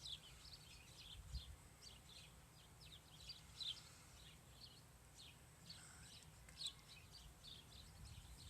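Faint small-bird chirps, many short calls coming irregularly, over a low outdoor background hum.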